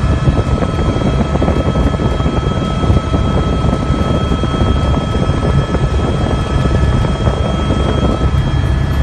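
Helicopter in flight, heard from inside the cabin: a steady loud rotor and engine drone with a constant high turbine whine over a deep rumble.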